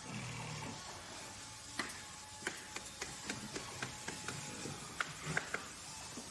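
Workshop machinery running steadily with a faint hum, under a series of irregular sharp clicks and knocks from work being done.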